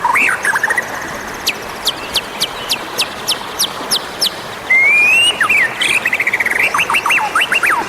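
White-rumped shama singing: first a fast run of sharp, downward-sweeping chirps, about five a second. About five seconds in come a rising whistled note, a quick trill and several swooping whistles.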